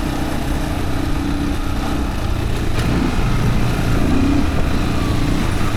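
Yamaha WR155R dirt bike's single-cylinder four-stroke engine running steadily under way.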